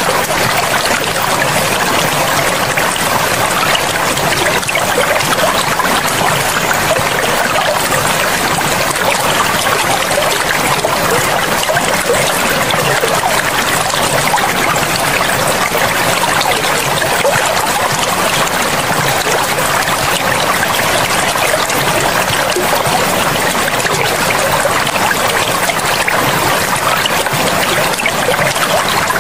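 Forest river flowing, a steady unbroken rush of running water.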